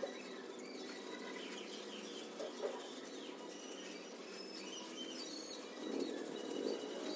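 A flock of 16-day-old broiler chicks cheeping, many short high peeps over a constant shuffling and fluttering, louder from about six seconds in.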